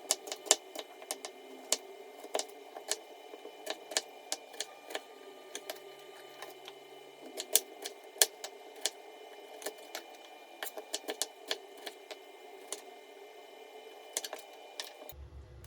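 A run of irregular sharp clicks and taps, a few a second, in a small room, like typing or handling small hard objects.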